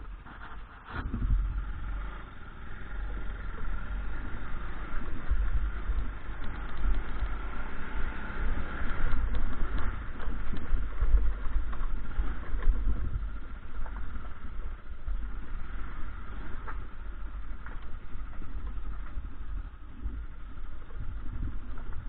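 Motorcycle engine running while riding on a rough road, with an uneven low rumble throughout; the sound picks up about a second in.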